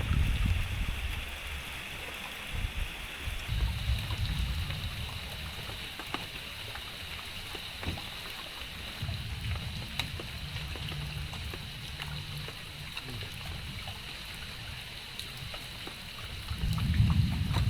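Rainy riverside outdoor ambience: a steady high hiss with low wind rumbles on the microphone that come and go, and scattered light ticks like drops.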